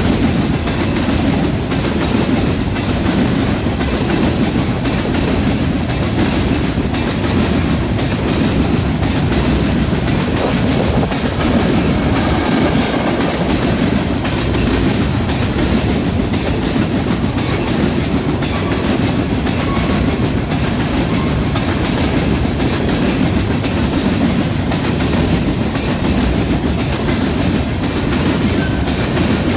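Covered hopper cars of a long freight train rolling past, steel wheels on the rails making a steady rumble with continual clickety-clack.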